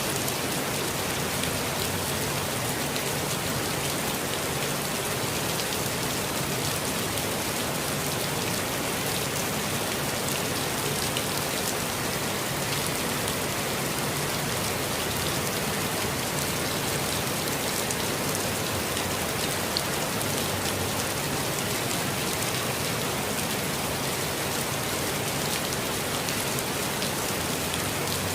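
Steady, even rainfall, with many fine drops pattering on surfaces and no thunder.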